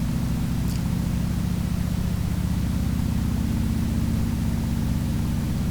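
Harley-Davidson Sportster's V-twin engine running at a steady cruise, with a steady rush of wind hiss over it.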